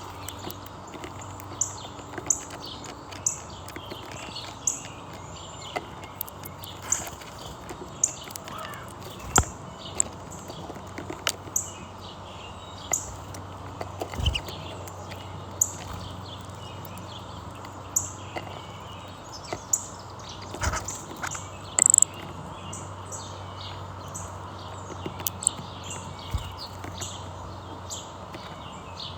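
Small birds chirping: short, high chirps repeated about once a second, over a steady low hum, with scattered sharp clicks.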